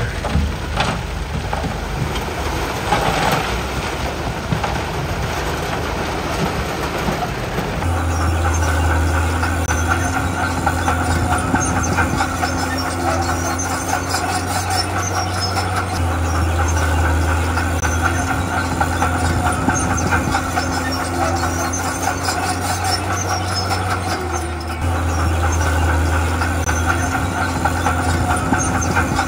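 Heavy diesel earthmoving machinery, a crawler bulldozer, running under load with a steady low engine drone, high squealing from the tracks and a few metallic clanks in the first seconds. The engine note steps up and becomes steadier about a quarter of the way in.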